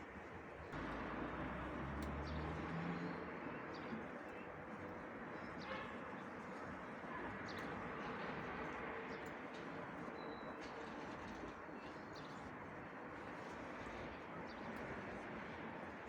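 Birds chirping faintly over a steady background hiss, with a low cooing call about two seconds in.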